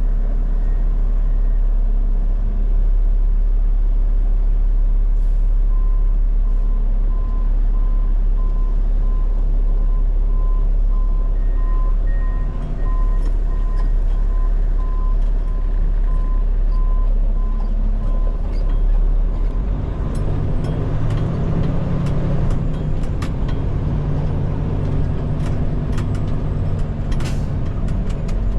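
Diesel engine of a Peterbilt 589 dump truck running with a steady low rumble. A backup alarm beeps repeatedly for several seconds in the middle, and in the last third the engine note rises and gets louder.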